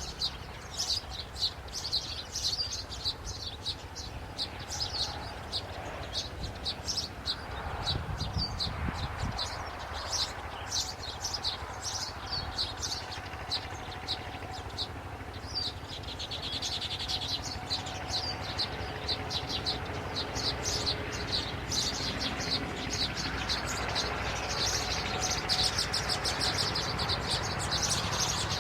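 Birds chirping: a continuous run of rapid, short, high-pitched chirps, busier and louder toward the end, over a steady low rumble.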